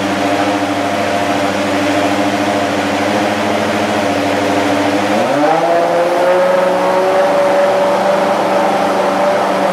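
Toyota Lexus SC430 GT500 race car's V8 engine running during warm-up, idling steadily. About five seconds in, the engine speed steps up and holds at a higher, steady pitch.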